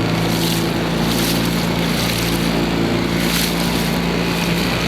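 Motorboat engine running steadily at speed, with a constant hum over water and wind hiss and a few brief gusts on the microphone.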